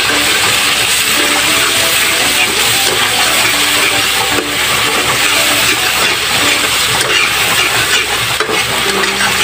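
Shrimp paste and tomatoes sizzling steadily in hot oil in a wok while a metal spatula stirs them.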